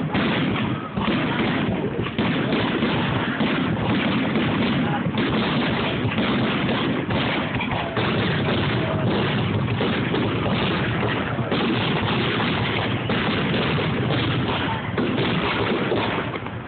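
Fireworks finale: a dense, unbroken barrage of aerial shell bursts, the booms and cracks following so closely that they run together.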